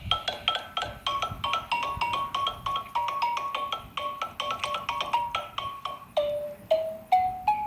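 Xylophone played: a quick run of single struck notes, several a second, slowing to a few spaced notes near the end.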